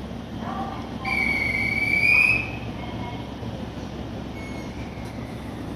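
Station platform beside a stopped JR 313-series electric train, with a steady low hum. About a second in, a single high-pitched squeal rises slightly in pitch for about a second and a half.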